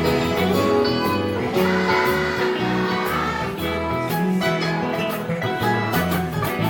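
Children's choir singing a church chorus, backed by guitars, with a tambourine and jingling bells keeping a steady beat.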